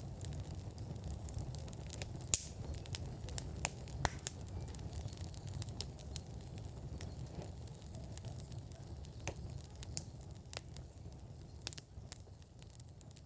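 Wood fire in an outdoor fire pit crackling, with sharp irregular pops over a steady low rumble; it gradually gets quieter toward the end.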